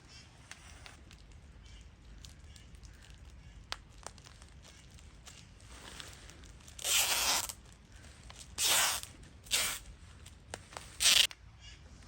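Adhesive tape pulled off the roll in four loud rips in the second half, the first two longest, as tape is stripped off to fix a plastic-sheet shelter.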